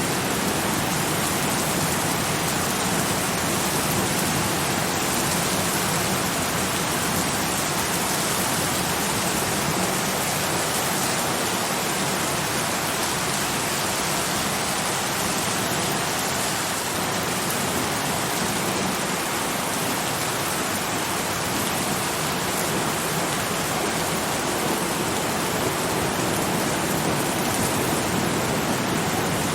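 Steady, even rain: a continuous dense hiss of rainfall with no distinct drops or thunder standing out.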